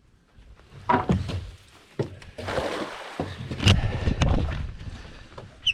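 Camera handled on a boat with a few knocks, then a cast net thrown and landing on the water with a rushing splash.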